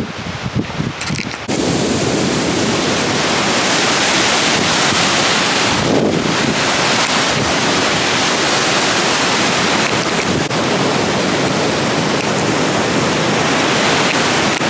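Waterfall on Pyramid Creek rushing, a super loud steady wash of water noise. It comes in suddenly about a second and a half in, after a quieter start.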